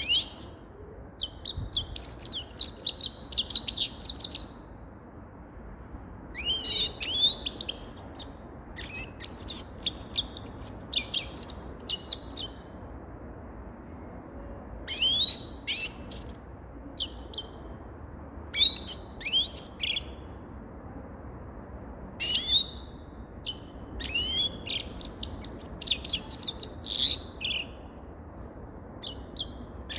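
Grey-crowned goldfinch singing: repeated phrases of rapid, high twittering and chirps, each lasting from under a second to a few seconds, with short pauses between them.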